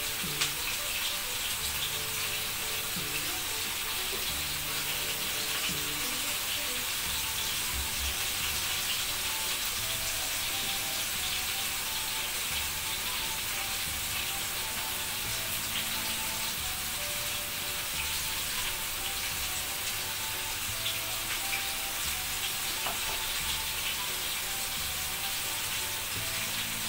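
Flour-breaded chicken breasts shallow-frying in hot oil in a pan: a steady sizzle with a dense, fine crackle.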